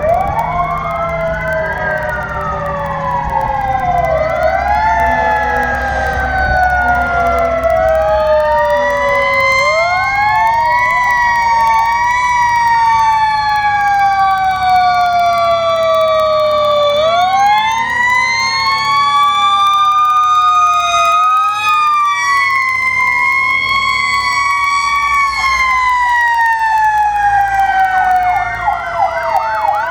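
Several fire truck sirens wailing at once, each rising and falling in pitch out of step with the others, with a low engine rumble under them at first. Near the end one siren switches to a fast yelp.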